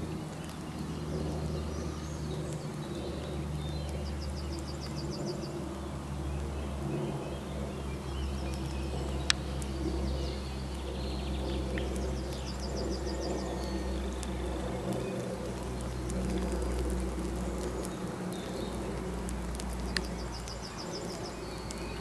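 Wild birds singing: a high, rapid trill of evenly spaced notes comes three times, several seconds apart, among fainter scattered calls, over a steady low rumble. Two sharp clicks stand out, one near the middle and one near the end.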